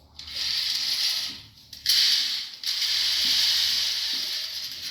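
Curtain gliders running along a double-row curtain track as the curtain is pulled by hand, a steady rasping slide with a short break about a second and a half in. The gliders run freely through the corner joint.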